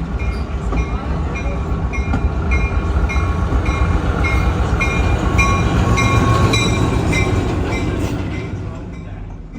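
A train passing with a heavy rumble of wheels and cars, with a railroad crossing bell ringing about twice a second. The rumble is loudest about six seconds in and fades toward the end.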